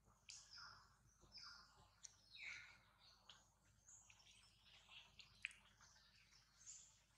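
Faint birdsong in the forest: scattered short high chirps and quick falling calls, with a sharp tick about five and a half seconds in.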